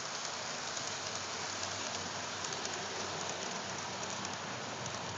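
HO-scale model locomotive and train running on the layout track: a steady rushing hiss of wheels and motor with faint scattered clicks.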